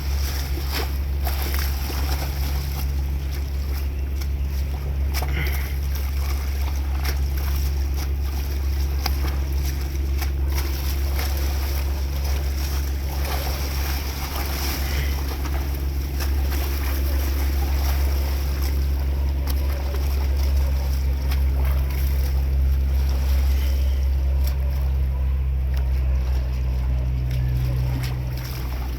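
Ferry's engine running with a steady low drone as the boat pulls away from the pier, growing a little louder in the second half, with water sloshing.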